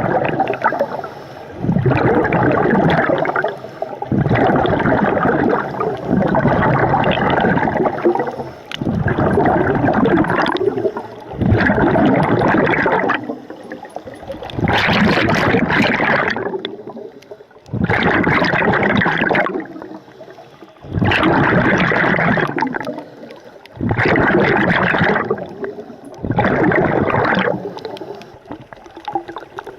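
A diver's breathing heard underwater: loud bursts of bubbling, one for each breath, recurring about every two and a half seconds with short quieter gaps between.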